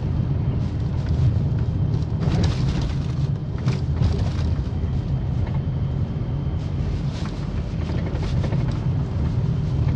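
Toyota Ipsum ACM21 front suspension strut knocking over a steady road rumble, with a knock about seven to eight seconds in. The knock is the sign of a faulty front strut.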